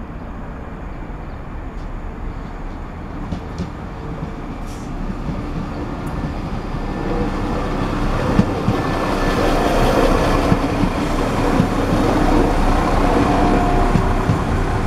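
London Midland diesel multiple unit running along a station platform, its engine and wheel noise growing steadily louder as the train's end car comes close, with scattered knocks from the wheels.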